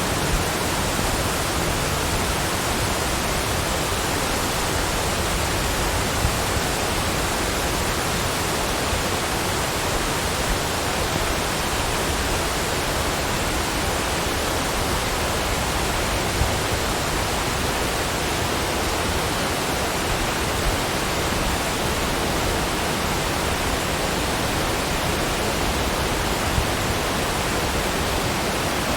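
Rushing water as an even, unbroken hiss, steady in level with no other sound standing out.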